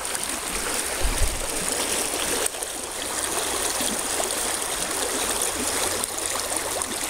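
Fast-flowing stream water rushing and burbling steadily over rocks, heard close up. A brief low thump about a second in.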